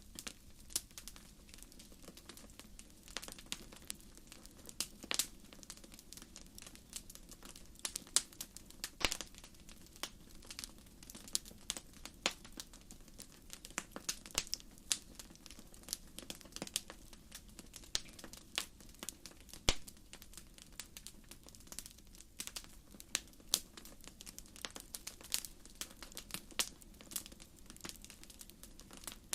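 Wood fire burning, its firewood crackling with irregular sharp pops, some louder than others, over a steady low rumble of the flames.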